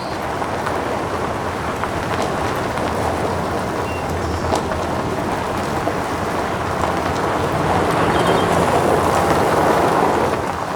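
Steady rushing noise with a low hum beneath it, like a vehicle on the move, growing a little louder in the last few seconds and then cutting off suddenly. A few faint short chirps sound over it.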